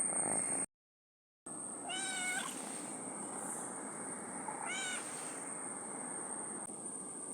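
Small kitten meowing twice, thin and high-pitched, each call about half a second long and roughly two and a half seconds apart.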